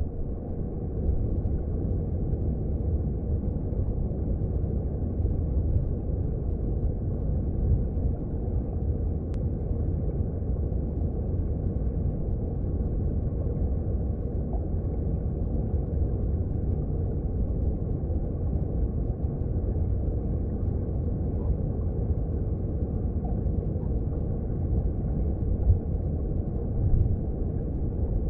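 Mountain stream water heard underwater: a steady low rumble of current flowing over the rocks, swelling briefly twice near the end.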